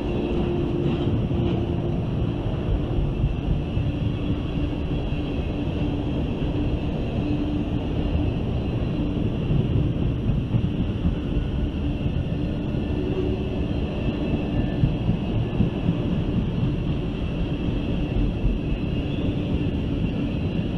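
Freight train tank cars rolling past: a steady rumble and clatter of steel wheels on rail, with faint steady high tones running through it.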